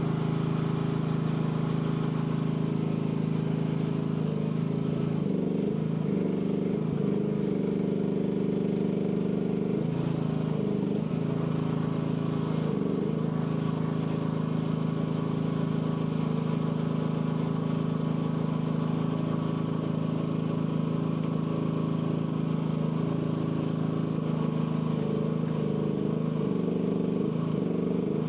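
Engine of an AGT L12 mini excavator running steadily, its pitch dipping briefly several times as the hydraulics take load while the machine works.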